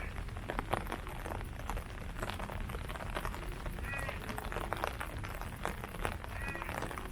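Steady rain falling on leaves, many drops tapping in quick, uneven succession. A short high chirp sounds twice, about four and six and a half seconds in.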